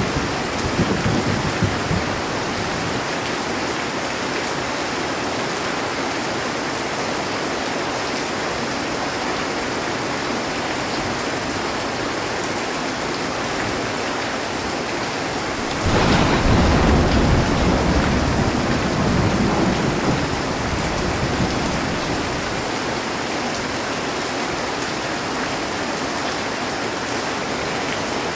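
Heavy rain falling steadily on a metal roof. A low thunder rumble fades away at the start, and a little past halfway a sudden clap of thunder rumbles and dies away over several seconds.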